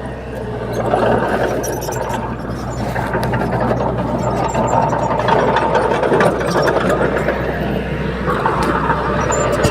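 Diesel engine of a crawler bulldozer running steadily under load, with a constant hum and many short rattles and clanks over it.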